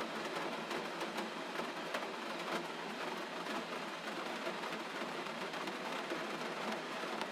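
Steady gentle rain, with many small drops pattering and ticking on a surface.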